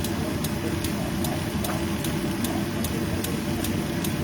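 Steady low rumble of the kitchen stove setup running while the braise cooks, with a faint regular ticking about two or three times a second.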